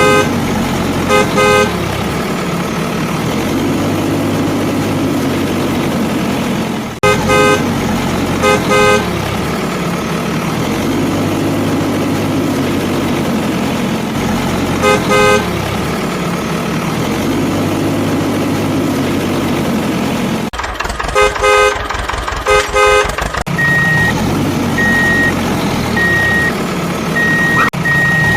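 Truck engine running steadily, with short horn toots, often in pairs, every few seconds and a quick run of several toots about 21 seconds in. From about 24 seconds a reversing beeper sounds about once a second.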